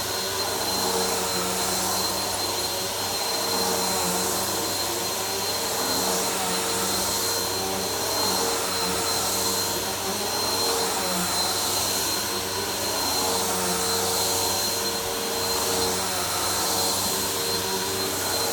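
Vacuum cleaner running on a floor: a continuous motor and airflow noise with a steady high whine. Its level rises and falls a little every couple of seconds.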